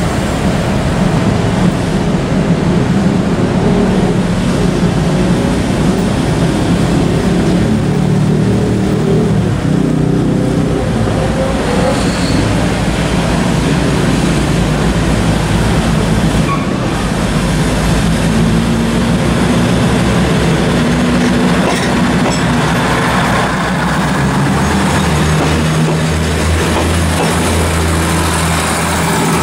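A diesel-hauled passenger train arriving: the locomotive's diesel engine runs loud and steady as it draws in and passes, then the coaches roll slowly along the platform. The engine's low tone shifts lower about 24 seconds in.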